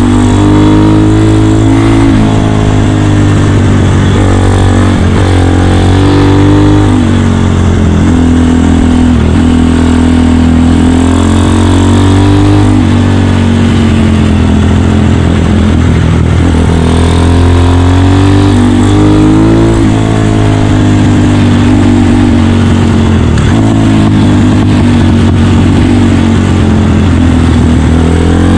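Honda Dax with a 150cc single-cylinder four-stroke engine, running under way with the throttle open; its pitch climbs and falls back several times as the rider works the throttle and gears.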